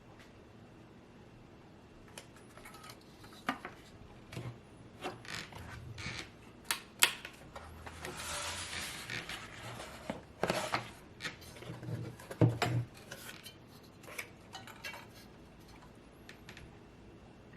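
Hands handling PC parts: scattered clicks, taps and small clinks of hard plastic and metal, with a stretch of rustling and scraping about eight to ten seconds in and a couple of sharper knocks.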